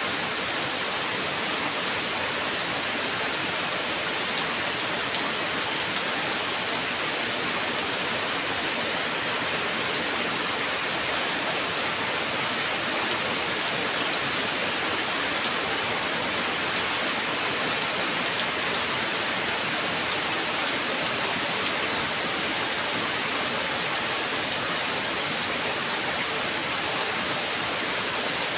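Heavy rain falling steadily, an even hiss of drops with no thunder and no change throughout.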